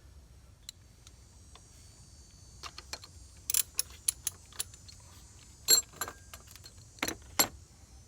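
Sharp metallic clinks and clicks as the thermostat housing cap and its bolts are set back in place and the bolts started by hand. A scattered dozen or so begin about three seconds in, with two louder clanks near the end.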